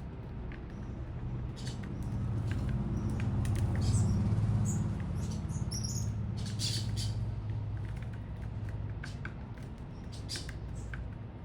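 Small birds giving short, high chirps and squeaks, scattered through, over a low rumble that swells in the middle and eases off.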